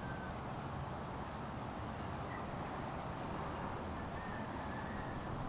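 Steady, quiet background noise with a few faint, brief high-pitched tones.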